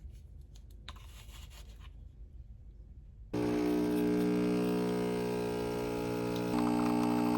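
Small electric espresso maker's pump switching on suddenly about three seconds in and running with a steady buzz as it pumps water through the coffee, the tone shifting slightly near the end. Before it, only a faint hum and a few light clicks.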